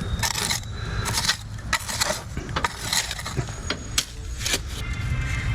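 A metal hand tool scraping and digging into gritty ground in short, irregular strokes, about two a second, with a sharp click about four seconds in, over a steady low rumble.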